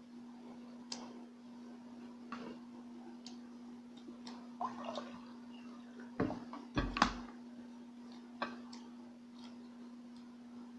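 Close-mic eating sounds: wet chewing, lip smacks and small clicks, with two louder thumps about six and seven seconds in, over a steady low hum.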